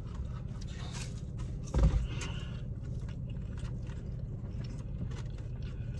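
Chewing and eating sounds with small ticks and rustles of food being handled, over a steady low hum inside a car. A single louder thump about two seconds in.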